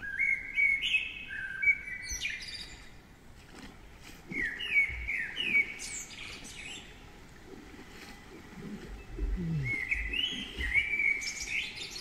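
A songbird singing three phrases a few seconds apart, each a quick run of clear whistled notes.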